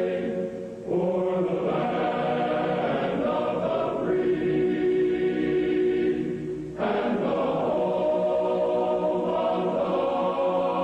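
Choir singing slow, sustained chords, with a new chord coming in suddenly about a second in and again about seven seconds in.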